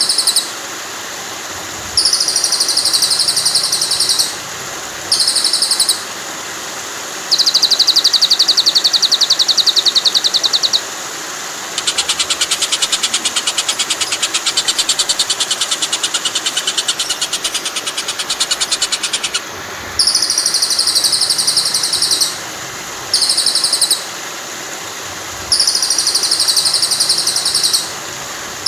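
Recorded songbird calls for teaching a white-rumped shama its song repertoire, played over the steady rush of flowing water. Short bursts of high chirping repeat with gaps, broken by a long rapid buzzing trill about a quarter of the way in and another that runs for about seven seconds through the middle.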